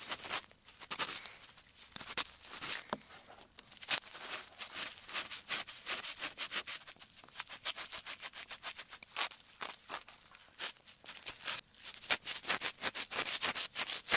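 ASMR ear-cleaning sounds: an ear pick scraping and rubbing close against a microphone, a dense, irregular run of crackly scratches.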